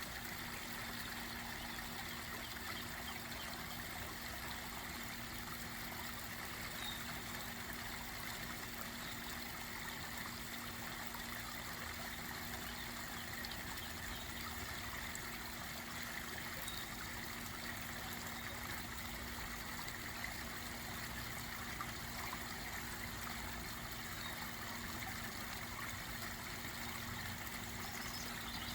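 Garden pond waterfall trickling and splashing steadily.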